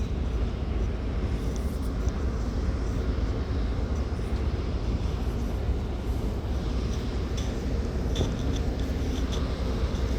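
Steady low rumble of a car ferry's engines and hull under way, heard on the upper deck, with a few faint high ticks in the second half.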